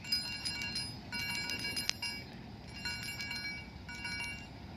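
A 25 mm hollow metal chiming ball on a key ring being shaken, its inner chime ringing with bright, bell-like overlapping tones. It goes in three main shakes of about a second each, with a fainter one near the end.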